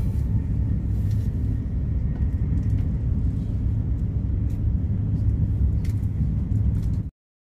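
Steady low rumble of a moving passenger train heard from inside the carriage, with a few faint ticks; it cuts off suddenly near the end.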